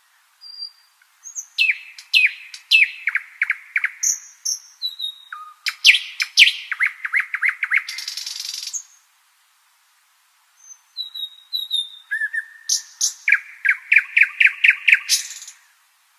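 Nightingale singing two song phrases separated by a pause of about two seconds. Each phrase opens with a few thin, high whistled notes and moves into fast runs of repeated notes.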